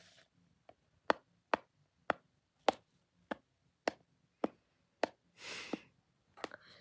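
A slow series of sharp taps or clicks on a small hard object, about one every half-second, with a brief rustle a little after five seconds in and a couple of quicker taps near the end.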